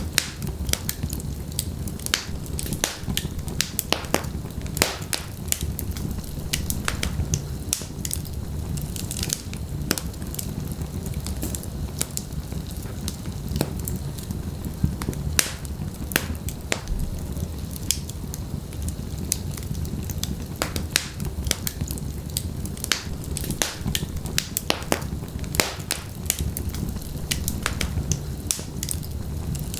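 Wood fire crackling in a fireplace: sharp, irregular pops and snaps from the burning logs over a steady low rumble of the flames.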